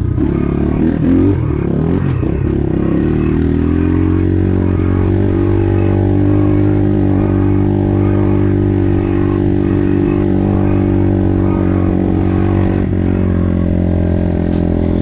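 Highper 150 pit bike's single-cylinder engine running; its pitch shifts up and down for the first few seconds, then holds at steady revs.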